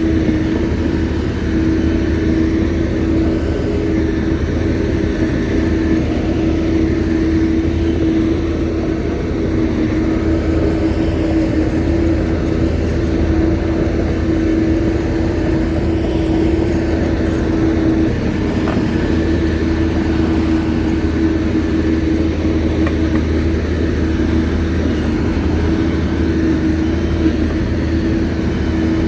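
Shantui bulldozer's diesel engine running steadily under work, a constant drone that holds the same pitch and level throughout.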